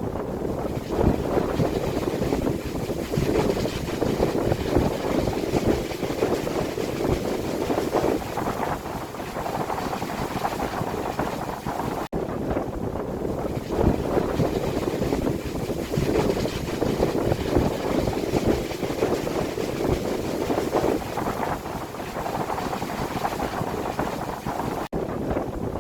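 Strong, gusty wind blowing steadily and surging every few seconds, with the wind buffeting the phone's microphone. The sound drops out for a split second about twelve seconds in.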